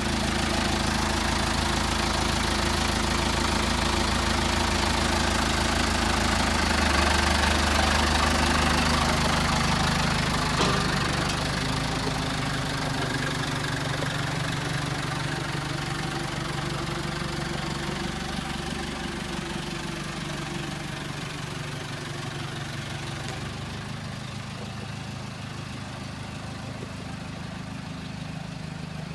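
Tractor engine running steadily, growing gradually quieter over the second half.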